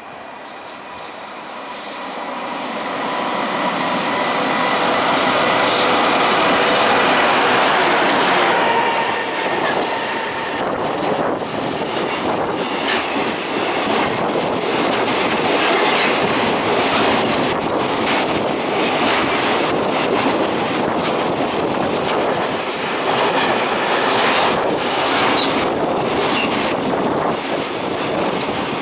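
EH500 electric locomotive approaching and passing, its sound swelling over the first several seconds with a steady humming tone. A long string of loaded container wagons then rolls by, wheels clicking repeatedly over the rail joints.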